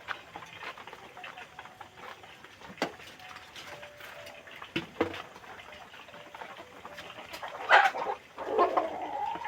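Kampung chickens: scattered small clicks and faint short calls, then a loud call about eight seconds in that runs into a long held call near the end.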